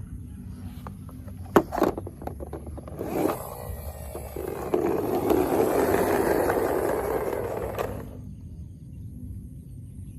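A few sharp clicks and knocks, then a rough scraping noise lasting about four seconds that stops abruptly.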